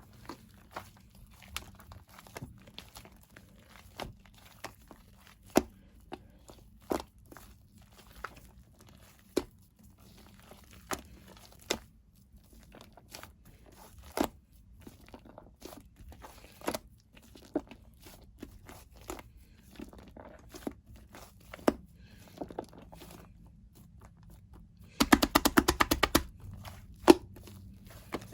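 Shaving foam being mixed by hand, giving sharp squishy pops and clicks about once a second, then a quick run of many pops about three seconds before the end.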